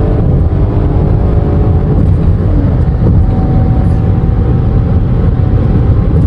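Chrysler Pacifica minivan driving fast: a loud, steady rumble of engine, road and wind noise.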